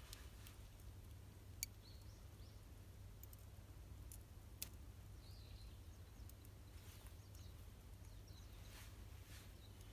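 Near silence over a low steady hum, broken by two sharp pops from the burning campfire wood about three seconds apart, with a few faint high chirps.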